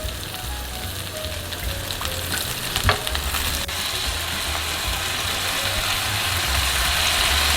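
Skin-on potatoes sizzling in cooking oil in a pan, the sizzle growing steadily louder; a single sharp knock about three seconds in.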